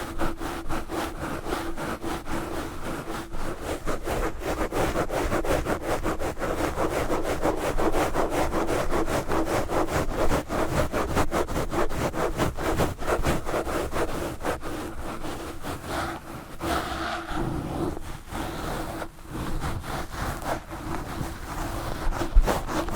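Knitted yarn gloves scratching fast and hard across a Blue Yeti microphone: a rapid, unbroken run of rubbing strokes close on the mic, which dips briefly about three-quarters of the way through.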